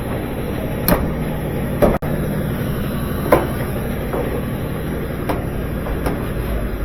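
About five sharp metal knocks and clunks, spaced irregularly, as the GE dryer's drum and sheet-metal parts are fitted back into place, over a steady background hiss.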